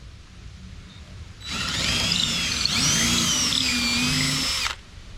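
Power drill boring a hole through a wooden board with a larger bit in the step-up sequence. It starts about a second and a half in and runs for about three seconds, its whine wavering in pitch as the bit bites, then stops suddenly.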